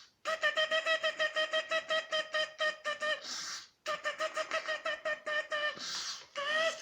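Gull calling: a rapid run of repeated pitched notes, about eight a second, for about three seconds, then a short breathy hiss, a second run of about two seconds, another hiss, and the start of a longer single call near the end.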